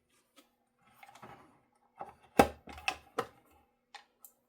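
Clicks and knocks of parts and tools being handled on the guitar body as its control cavity is closed up: a soft rustle, then a quick run of sharp knocks a little past the middle, one much louder than the rest, and a couple of light ticks near the end.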